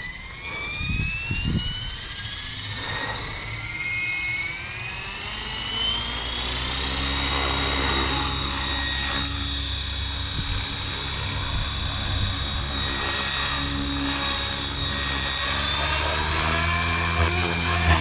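Electric RC helicopter (Blade Fusion 480) spooling up: the motor's whine rises steadily in pitch over the first six seconds or so as the rotor comes up to head speed. It then holds a steady high whine over a low rotor hum that grows slowly louder, with some uneven swells near the end.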